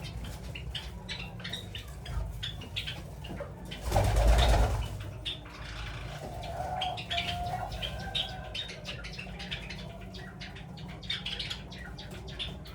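Doves and Java sparrows in an aviary. Wings flap loudly in a short flurry about four seconds in, a dove coos a couple of seconds later, and short high chirps come from the small birds throughout.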